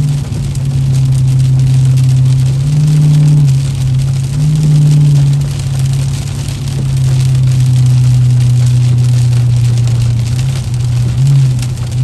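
Car engine running under way, a steady drone that swells slightly in pitch a few times as the throttle is worked, over a steady hiss of rain and wet road.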